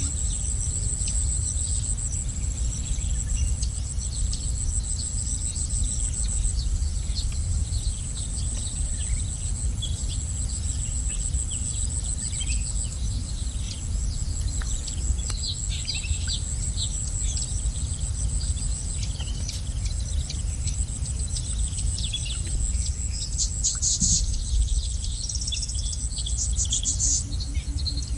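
Small birds chirping in short, scattered calls, busier near the end, over a steady high-pitched insect drone like crickets, with a constant low rumble underneath.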